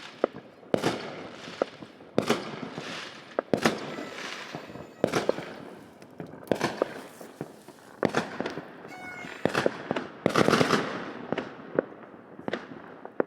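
Fireworks going off in quick succession: sharp bangs about every second, many trailing into crackles, with the largest burst about ten seconds in. A short pitched tone sounds just before it.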